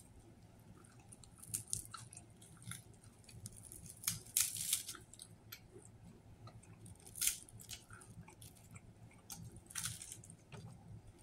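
Close-up mouth sounds of a person biting and chewing a sub sandwich with lettuce and a breaded filling: wet chewing broken by sharp crunches, the loudest about four and seven seconds in and again near the end.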